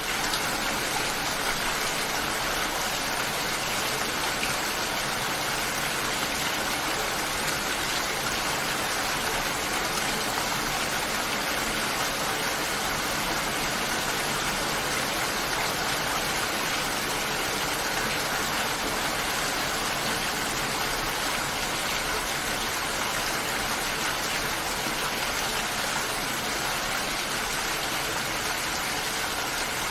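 Heavy rain falling steadily, an even rushing hiss that fades in from silence at the very start.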